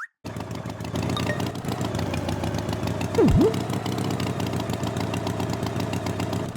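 Engine running steadily at idle, with one quick swooping whistle that dips in pitch and rises back about three seconds in.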